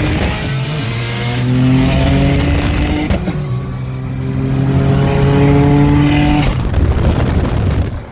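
Turbocharged Subaru EG33 flat-six revving hard on a dyno. Its pitch climbs, drops back briefly about a second and a half and three seconds in, climbs again, and eases off near the end.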